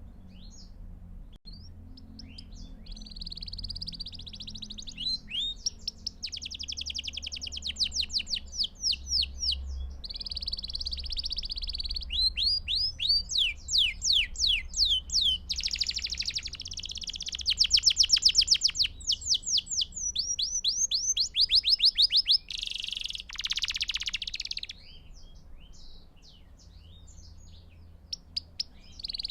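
Belgian canary singing a long, continuous song: fast trills and rolls of rapidly repeated notes, one run after another, over a faint low hum. The song thins out a few seconds before the end.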